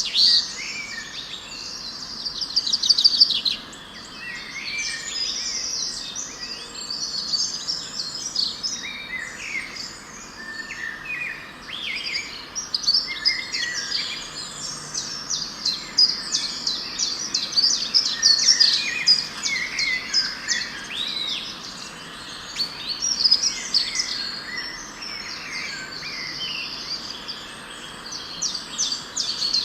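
Several birds singing and calling at once, a dense mix of overlapping chirps, rapid trills and short whistles.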